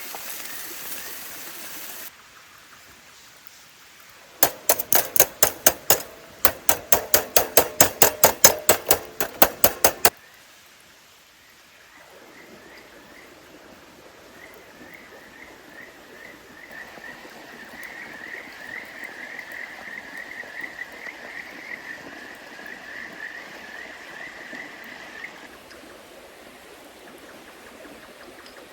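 A stream flowing steadily. A run of loud, rapid clicks comes about four seconds in and lasts some six seconds. Later a long string of short, high chirps repeats several times a second, swells, and then stops.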